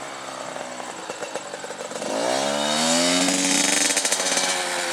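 Dirt bike engine running unevenly, then revving up sharply about two seconds in and holding at high revs, easing off slightly near the end.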